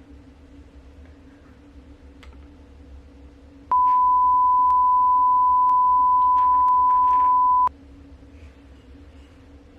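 A single steady beep tone lasting about four seconds. It starts sharply a little before halfway through and cuts off just as sharply, loud over a faint background hum. It is the pure-tone bleep typically edited in to censor speech.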